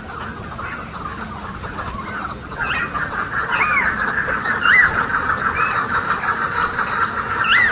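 Birds calling: a dense, steady chatter gets louder about two and a half seconds in, with short, squeaky calls that rise and fall, repeating about once a second.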